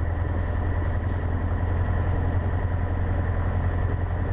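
Cessna 150's Continental O-200 four-cylinder engine idling steadily, throttled back after the run-up, heard from inside the cockpit.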